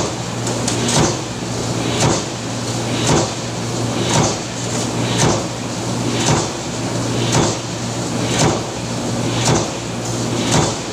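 Industrial press machine cycling steadily, one stroke about every second, each stroke a sharp hit over the steady hum of its motor.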